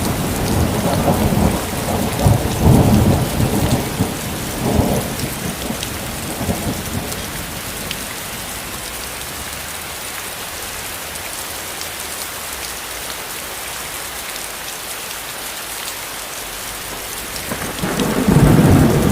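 Steady rain with thunder: low rumbling through the first several seconds that dies away, then thunder rumbling again near the end.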